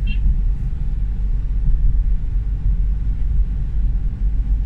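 Steady low rumble of engine and road noise heard inside the cabin of a moving car.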